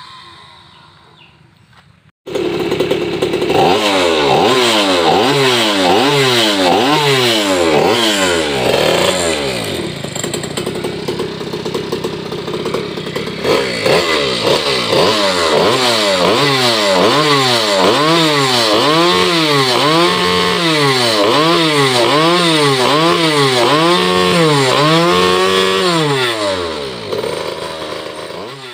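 Goped scooter's small two-stroke engine, a 49cc earth-auger engine bored to 63cc with a Walbro carburettor, running through a racing exhaust. It is revved up and down over and over in quick throttle blips. The engine comes in abruptly about two seconds in and fades near the end.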